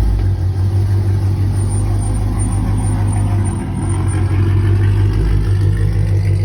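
2015 Camaro SS's 6.2-litre V8 idling through long headers with no catalytic converters and no mufflers: a loud, steady, deep exhaust note.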